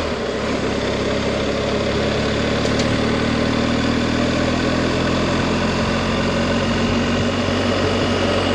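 Adventure motorcycle engine running steadily under way, with a steady noise of wind and road over it.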